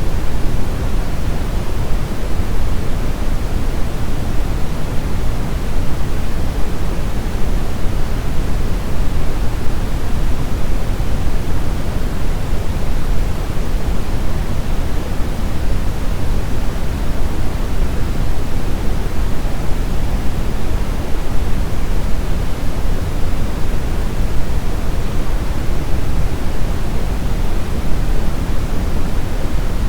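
Steady brown noise: an even, deep rushing hiss, strongest in the bass, with no changes or events.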